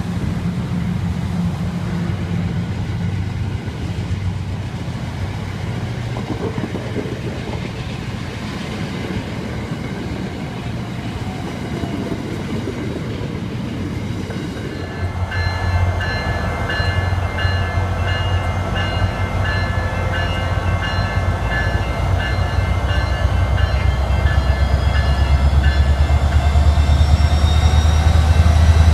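An Amtrak passenger train's cars rolling past on the rails. About halfway through, the sound changes abruptly to a SunRail commuter train's diesel locomotive: a deep rumble with several steady high tones, and a rising whine near the end as it grows louder.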